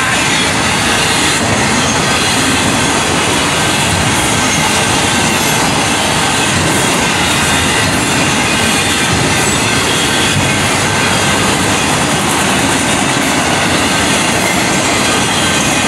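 Freight train of enclosed autorack cars passing fast at close range: a steady, loud rumble and rattle of steel wheels on the rails.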